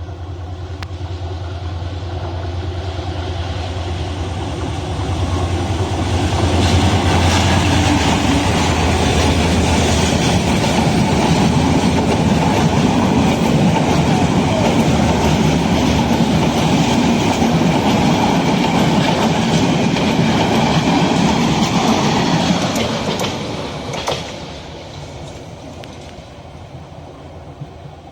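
A diesel-hauled train passing close by. A low engine hum builds over the first few seconds, then the wheels run loudly on the rails for about fifteen seconds before the sound fades away near the end.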